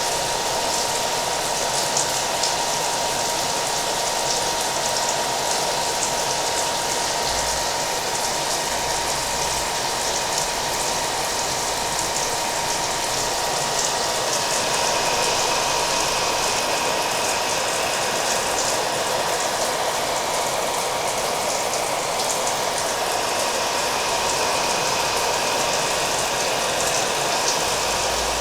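Hair dryer running steadily with a thin constant whine, mixed with a steady rain sound.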